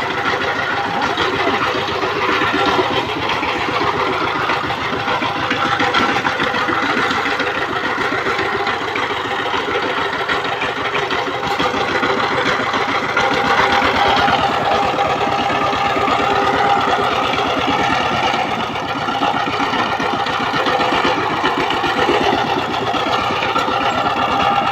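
Single-cylinder diesel engine of a power tiller running steadily with a fast, even chugging.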